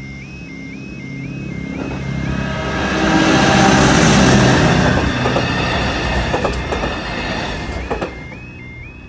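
Robel 69.70 Mobile Maintenance Train passing close by over a level crossing. Its diesel engines and wheels build to a loud rush a few seconds in and then fade, with sharp wheel clicks over the rail joints as the cars pass. The crossing's two-tone warning alarm sounds at the start, is drowned out, and comes back near the end.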